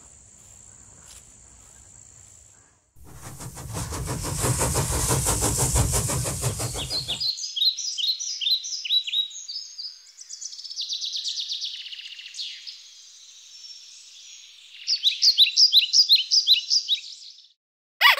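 A steady high drone of meadow insects over faint wind. About three seconds in it cuts to a loud rushing noise lasting about four seconds, then several bouts of quick, repeated falling bird chirps.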